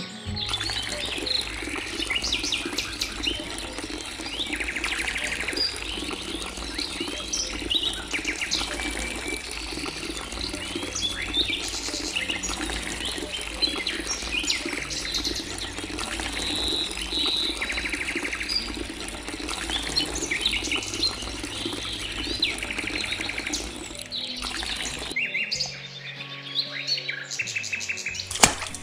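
Many small birds chirping and tweeting over a steady rush of running water, with faint music underneath. The water-and-bird sound breaks off about 25 seconds in, leaving lighter bird calls.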